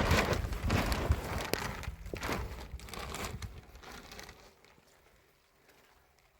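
Crackling, crinkling noise made of many small clicks, dying away about four and a half seconds in.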